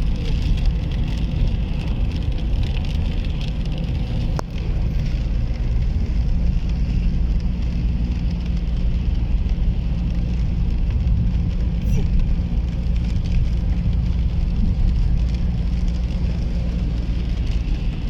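Car driving on a rain-wet road: a steady low rumble of engine and road noise with a hiss of tyres on water, and a single sharp click about four seconds in.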